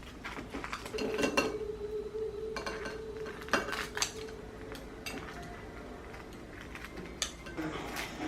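Dishes and cutlery clinking and knocking in a series of separate sharp clinks. A steady low tone joins in for a few seconds starting about a second in.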